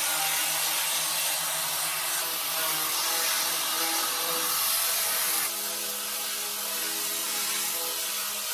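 A steady hiss over a motor hum, the hum stepping up slightly in pitch and the whole sound getting a little quieter about five and a half seconds in.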